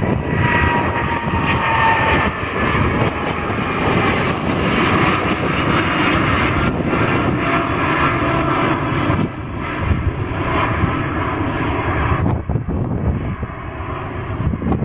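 Airliner passing close by, a loud engine roar with a whine that falls in pitch over the first couple of seconds as it goes past, easing somewhat near the end.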